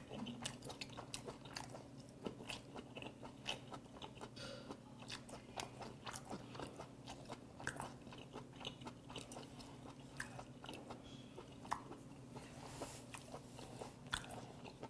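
A man chewing a mouthful of sliced sea hare close to the mic: a long run of small, moist clicks and smacks from the firm, spongy flesh.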